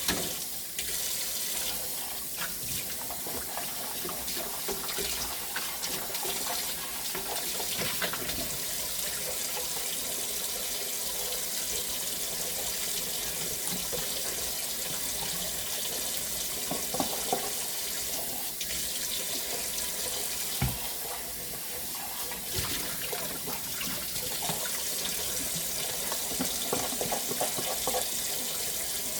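Water running steadily from a kitchen tap into a sink, with a few short knocks now and then.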